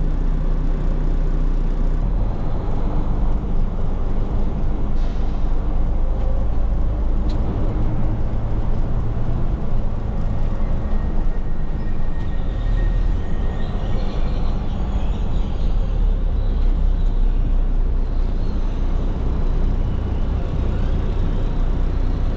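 Heavy roll-off truck's engine running steadily with a low rumble.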